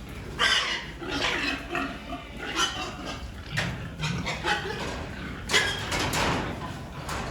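Domestic pigs squealing in a run of short, loud calls, a handful of them over a few seconds.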